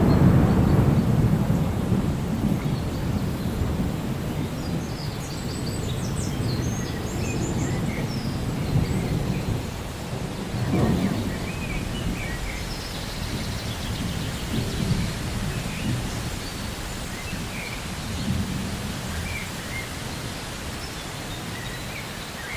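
Steady rain with rolling thunder: a deep rumble loudest at the start that slowly dies away, and another shorter rumble about halfway through.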